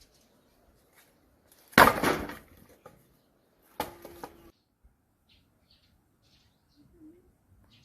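Birds flapping their wings in two loud flurries, the second with a short call, then faint chirping.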